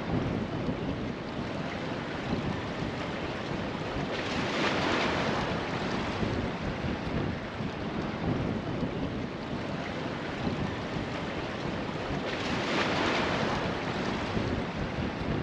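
Wind buffeting the microphone over the wash of waves, with two louder surges of water, about four and about twelve seconds in.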